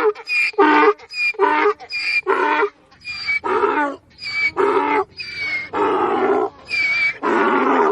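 Donkey braying: a long run of about seven hee-haw cycles, each a short, higher in-breath with a thin whistle followed by a longer, harsher out-breath, in a steady rhythm.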